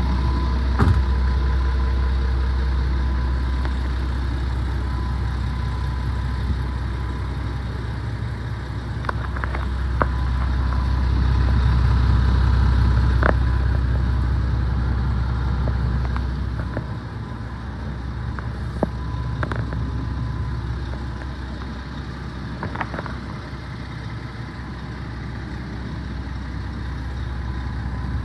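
Scania R500 truck's diesel engine idling with a steady low rumble, with a few light clicks.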